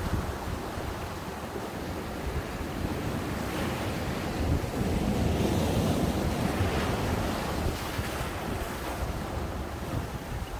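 Ocean waves breaking and washing up the beach, with the surf swelling louder in the middle and easing off near the end. Wind buffets the microphone throughout.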